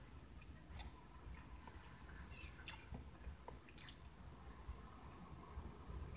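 Faint, wet chewing and mouth clicks of a man eating bread topped with sliced deli meat, with a few sharp smacks and a bite about four seconds in.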